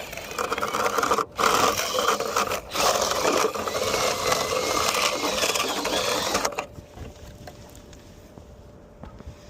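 Small power-tool motor running with a rattling, scraping sound. It stops briefly twice in the first few seconds, then cuts off about two-thirds of the way through.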